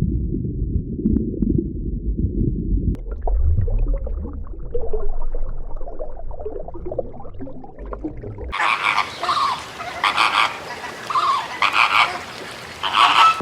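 Frogs croaking, in several short clips cut together. About eight and a half seconds in, the sound turns brighter, with a run of separate, repeated croaks.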